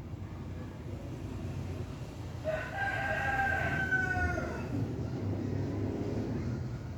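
A single long bird call lasting about two seconds, starting a few seconds in and dropping slightly in pitch at its end, over a low steady background rumble.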